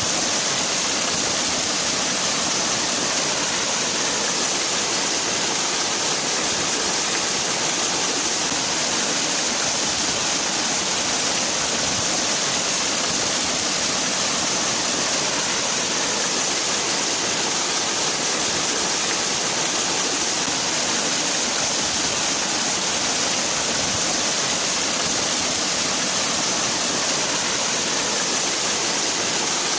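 Waterfall: water falling steadily in a continuous, even rush with a hissing top, no change over the whole stretch.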